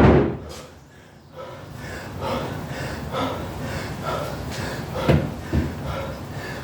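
Hard, rhythmic panting of an athlete mid-set of heavy dumbbell clean and jerks, about two breaths a second. A loud thud right at the start and two more thuds about five seconds in.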